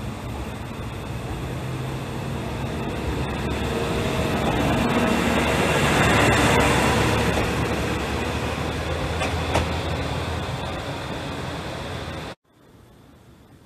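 Single-car diesel railcar running past on the line, its diesel engine growing louder as it comes alongside about six seconds in and then fading as it draws away, with a few sharp clicks from the wheels. The sound cuts off suddenly near the end to quiet background.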